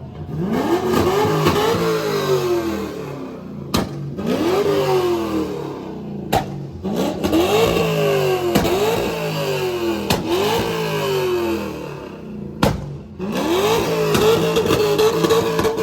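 Car engine revved hard over and over, its pitch climbing and dropping about six times, with the last rev held high near the end. Three sharp pops cut through, at about four, six and a half, and twelve and a half seconds in.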